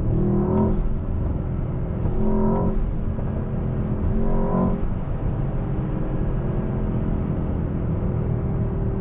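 Mercedes-AMG S63's 4.0-litre twin-turbo V8 running under load, heard from inside the cabin as it is driven through the gears. It swells briefly three times in the first five seconds.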